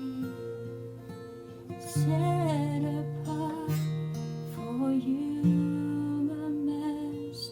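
Acoustic guitar strumming chords, with a few fresh strums about every second and a half to two seconds, under a soft wordless vocal line.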